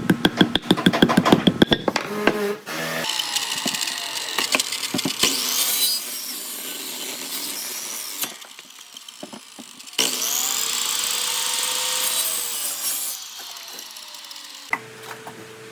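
Power tools working wood in a string of short cuts: a rapid, even tapping at first, then tool motors running and cutting, their pitch rising and falling. A louder spell starts suddenly about two-thirds of the way through.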